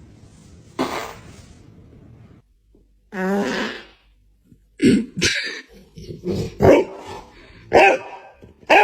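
Fart sounds: one wobbly, buzzy fart about three seconds in, then a quick run of short ones in the second half. A sharp click comes just under a second in.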